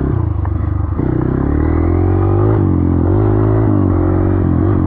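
Dirt bike engine running under way, its note climbing and dropping several times as the rider accelerates and shifts through the gears.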